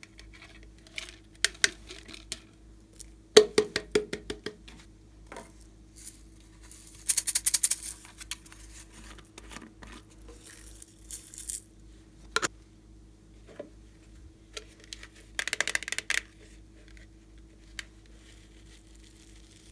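Slime being handled with small objects mixed into it: scattered clicks and short rattling clusters, and two brief crackly squishes, one about a third of the way in and one about three quarters through.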